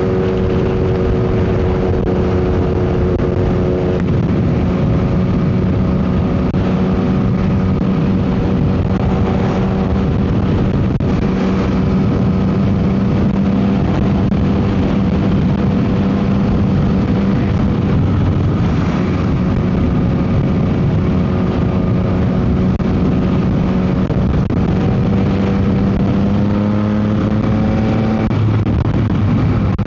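Yamaha MT-09 SP's three-cylinder engine running through an aftermarket Dominator GP exhaust while riding, its note mostly steady with a pitch change about four seconds in and a rise then sudden drop near the end. Heavy wind noise on the microphone.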